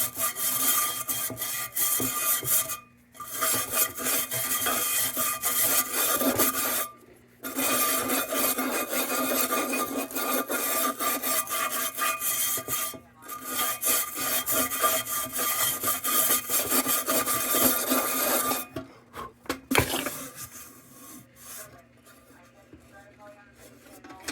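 Rapid rubbing and scraping strokes as old paint is scraped off a Dietz No.1 Blizzard cold blast lantern, in runs of several seconds with short pauses. The scraping stops about four seconds before the end, leaving only faint scattered handling sounds.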